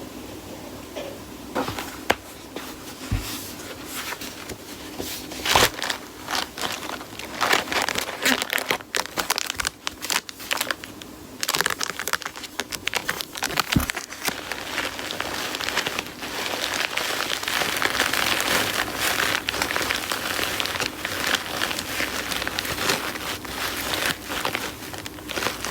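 Irregular crinkling and crackling with scattered sharp clicks, thickening into a dense, steady crackle in the second half.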